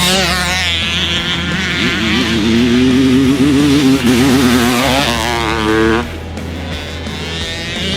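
Honda CR500's single-cylinder two-stroke engine revving up and down as the dirt bike is ridden, its pitch rising and falling repeatedly. The revs drop off about six seconds in.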